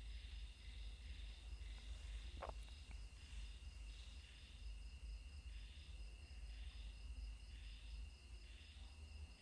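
Insects chirping outdoors in short high bursts repeating about once a second over a steady high buzz, with a low rumble underneath and one brief soft sound about two and a half seconds in.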